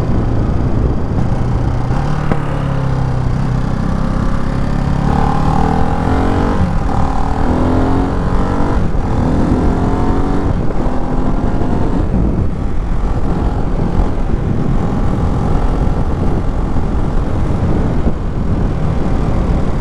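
Ducati Hypermotard 698 Mono's single-cylinder engine pulling hard through several gears, its note rising with each pull and dropping at each upshift, then holding a steadier cruise, over constant wind rush.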